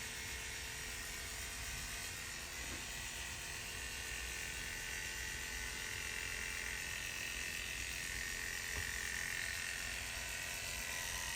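Electric hair clippers running steadily with a high whine over a hiss as they shave the donor area of the scalp for a hair transplant.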